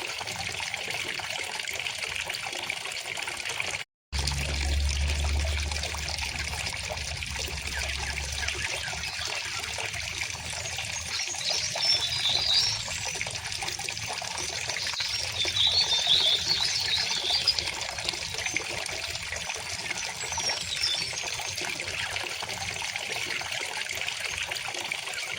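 River water running steadily with a trickling, babbling sound, and small birds chirping in short spells around the middle and again later. The whole sound cuts out for a split second about four seconds in.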